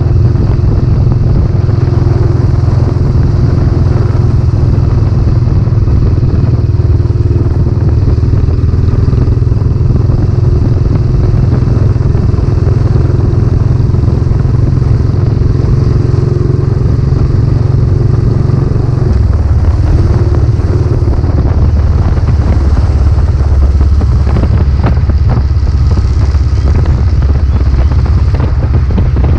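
Royal Enfield Classic 500's single-cylinder engine running under way through a newly fitted aftermarket silencer. The steady low engine note drops lower about two-thirds of the way through.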